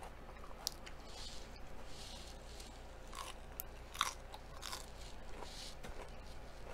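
Crunching and chewing of a crisp lettuce leaf: several sharp crunchy bites, the loudest about four seconds in, between softer wet chewing sounds.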